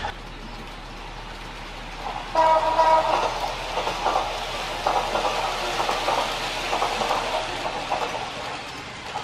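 A train horn sounds once, briefly, a few seconds in, followed by the running sound of a passing train with a rough rhythmic clatter from the rails.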